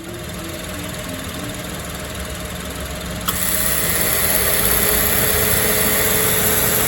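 Suzuki Xbee's turbocharged three-cylinder engine running at idle with the abnormal noise from its damaged air-conditioner compressor electromagnetic clutch. About three seconds in the sound steps up louder, with a strong hiss and a high steady tone added.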